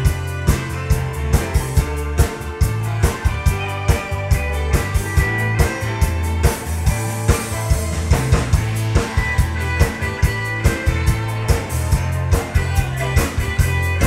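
Live band playing an upbeat song on drum kit, bass and guitar, with a steady beat of evenly spaced drum hits.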